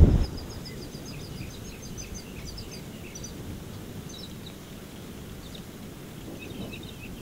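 Small birds chirping in quick runs of short high notes, busiest in the first few seconds and then scattered, over a steady low outdoor hiss. A brief loud low rush cuts off right at the start.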